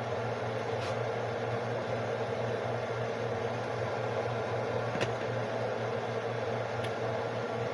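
A small motor running with a steady hum, with a few faint clicks: one about a second in, one midway and one near the end.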